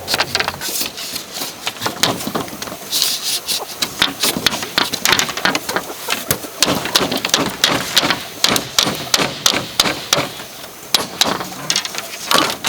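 Tools striking bamboo: a run of sharp, irregular knocks and taps, several a second, with brief scraping in between.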